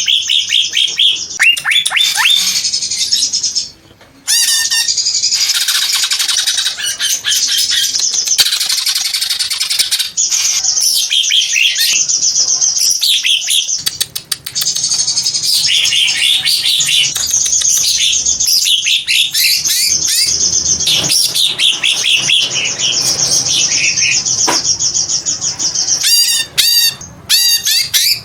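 Green leafbird (cucak ijo) singing a long, fast, varied song of rapid whistles, chirps and trills, broken by brief pauses about four seconds and fourteen seconds in.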